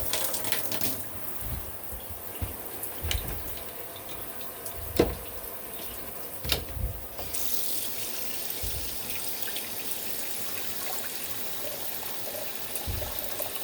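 Water running steadily from a shower, with a couple of light knocks about five and six and a half seconds in; the hiss grows brighter about seven seconds in.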